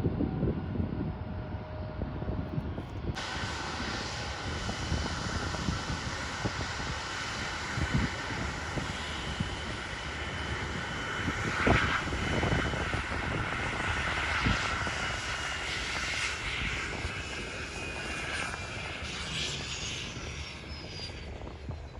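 Airliner's engines roaring as it passes, with a steady high whine over the roar and a high tone falling in pitch near the end.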